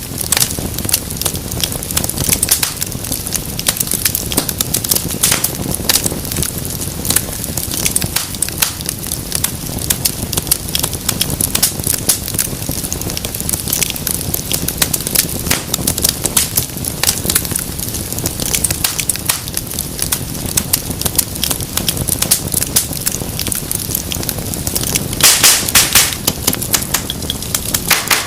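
Wood fire crackling steadily with many small irregular snaps and pops, and a brief flurry of louder pops near the end.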